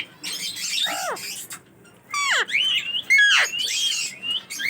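Parrots calling and chattering, with three loud calls that sweep steeply down in pitch, about one, two and three and a half seconds in.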